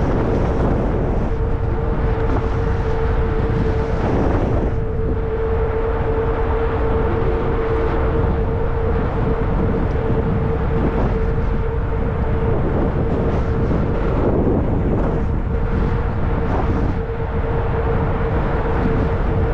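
Riding noise from a 20-inch fat-tire e-bike: wind rumbling on the microphone and tyres rolling, with a steady hum held at one pitch throughout.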